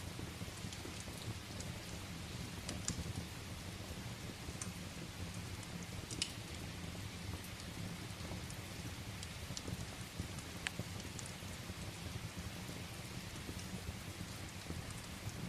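Steady rain with a low, even rumble, and a wood fire crackling in a fireplace: sharp, irregular pops scattered through it.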